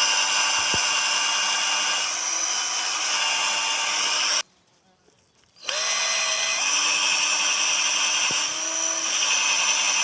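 Cordless drill-driver spinning a dry pine stick against a pine board to make a friction fire, its motor whine mixed with the stick grinding on the wood. It stops for about a second midway, spins up again, and cuts off suddenly at the end: the battery has gone flat.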